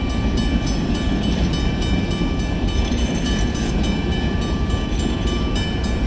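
Freight train cars rolling through a road grade crossing with a steady rumble of wheels on rail, while the crossing bells ring over it in a fast, even rhythm.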